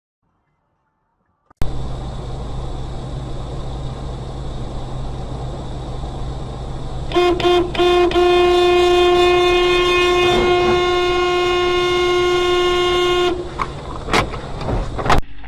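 Steady road noise from a moving car, then about seven seconds in a car horn sounds three quick toots followed by one long blast held for about five seconds. A few sharp knocks near the end.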